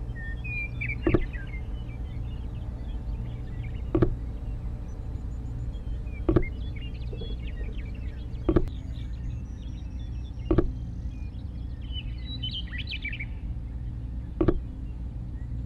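Six short knocks a few seconds apart as miniature clay brick wall panels are set down and pressed into place on sand, over a steady low background hum. Small birds chirp lightly throughout.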